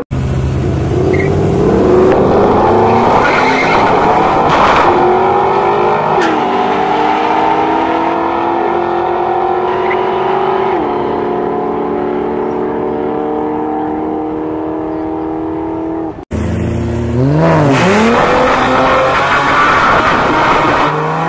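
Drag-racing car engines under full throttle, pitch climbing steadily and dropping twice at gear changes. After a sudden cut, engines revving up and down at the start line, then climbing again as the cars launch near the end.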